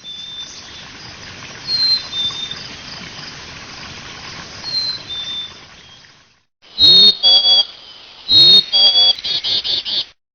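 Small birds chirping, short high chirps over a steady background hiss, for about six seconds. After a brief gap come two loud harsh squawks with clicks, then a quick run of rapid pulses near the end.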